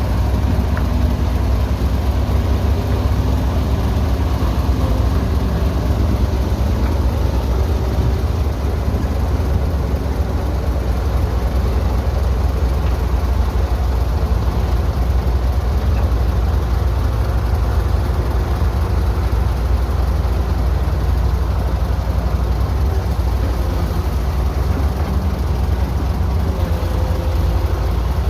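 Engine of heavy construction machinery, an excavator or dump truck, running steadily with a deep low rumble.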